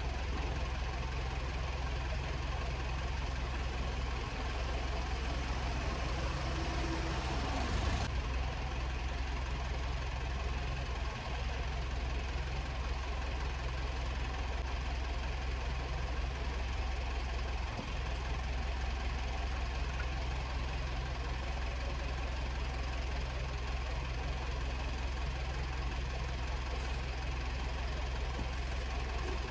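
Old baler's Armstrong Siddeley diesel engine running steadily, with a sharp click about eight seconds in.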